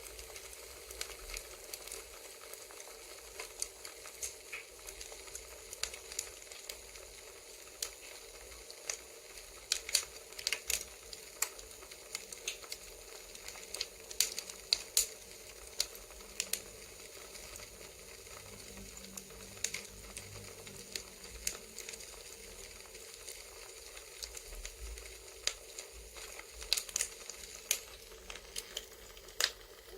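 Crackling campfire: a steady hiss broken by irregular sharp pops and snaps of burning wood.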